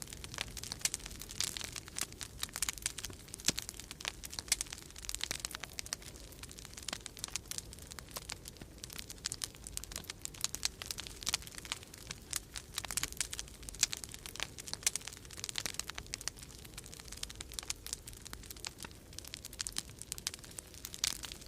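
Wood fire crackling in a fireplace: dense, irregular small pops and snaps, with a low steady rumble of storm wind underneath.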